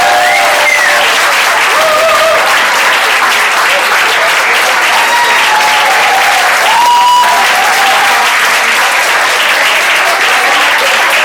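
Audience applauding loudly and steadily, with scattered cheering calls rising over the clapping.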